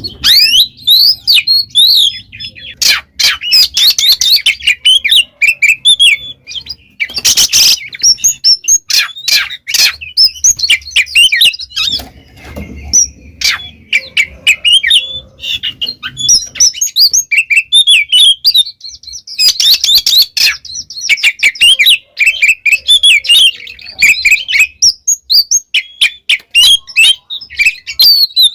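Oriental magpie-robin (kacer) singing loudly in full, continuous song: a fast, unbroken run of varied whistles and chirps mixed with scratchy rasping notes.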